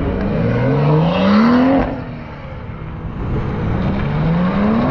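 Car engine accelerating, its pitch climbing steadily and loudest about a second and a half in, then dropping off sharply just before two seconds in. It climbs again toward the end.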